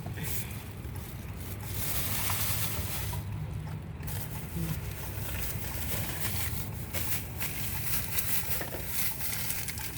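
Steady road noise inside a moving car: a low engine and tyre rumble under an even hiss, with faint scattered ticks.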